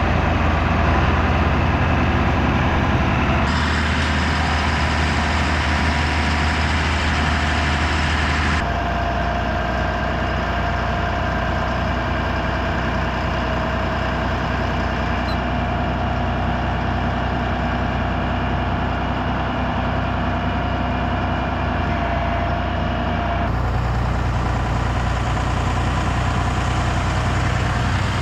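Heavy farm machinery engines running steadily. The tone of the engine noise changes abruptly four times.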